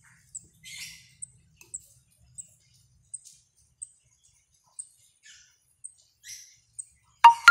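Young cabe jawa flowerpecker giving short, thin, high chirps, roughly two a second, with a few soft scratchy rustles between them. Loud music with ringing tones cuts in near the end.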